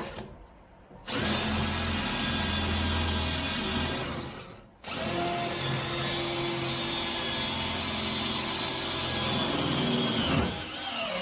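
A power tool's electric motor running with a steady whine in two long runs, a brief stop between them about five seconds in, and winding down near the end.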